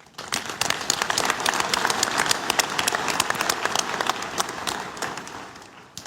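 A large congregation applauding, many hands clapping together; the applause starts abruptly, holds steady for about five seconds, then fades out.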